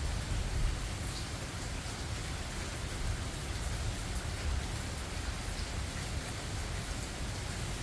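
Steady rain falling, with a few separate drop ticks and a steady low rumble underneath.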